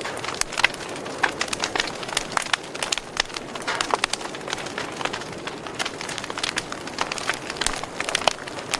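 Wood fire crackling in a fireplace: irregular sharp pops and snaps, several a second, over a steady hiss of burning.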